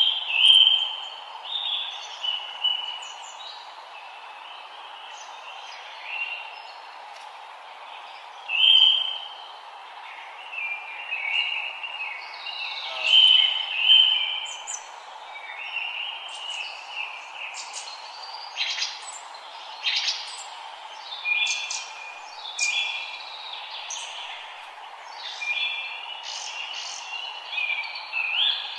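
Forest songbirds singing and calling: short whistled phrases and sharp chips from several birds, coming every second or two over a steady background hiss.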